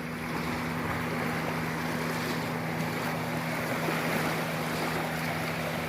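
Steady wash of wind and small waves at the water's edge of a reservoir, with a steady low hum underneath.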